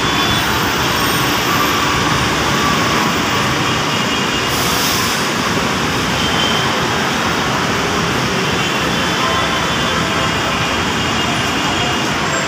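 Steady, dense roar of busy road traffic on a city street, with a short hiss about four and a half seconds in.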